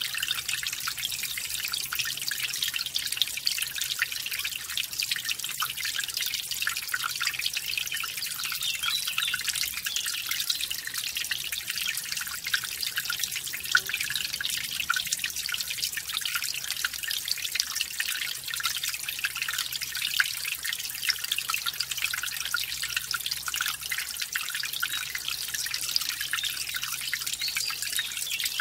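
Mountain stream splashing over a small waterfall: a steady, unbroken patter of light, high splashes and trickles with no deep rumble.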